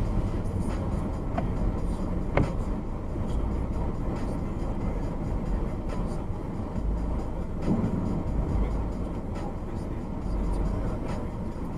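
Car driving with steady engine and road noise, with a short sharp knock about two and a half seconds in.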